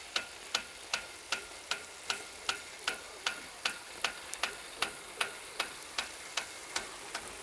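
Impact-driven rain gun sprinkler running: its swing arm clacks against the water stream in an even rhythm of about two and a half strikes a second, over a steady hiss of spray.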